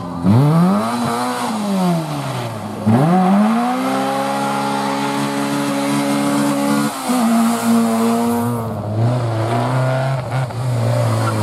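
Rally car engine at full throttle: the revs climb and fall, then climb again and hold high for several seconds before dropping sharply about seven seconds in.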